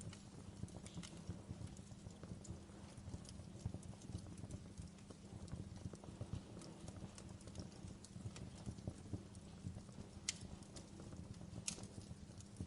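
Wood fire burning in a fireplace: a steady low rumble of flames with frequent small crackles, and two sharper pops late on.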